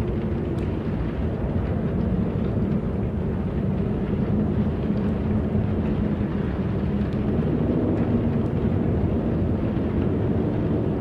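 Wind blowing steadily, a deep rumbling rush.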